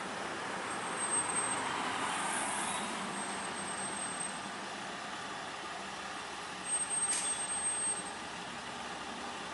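Heavy fire apparatus engine running amid street noise, with no siren sounding; the sound swells a little about a second or two in, and a short sharp hiss comes about seven seconds in.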